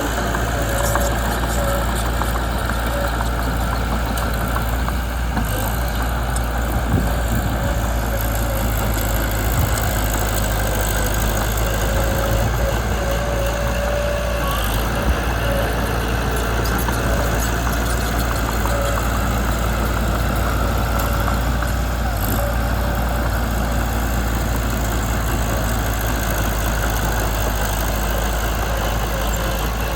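Mitsubishi BD2 bulldozer's engine running steadily, with a faint wavering whine at times.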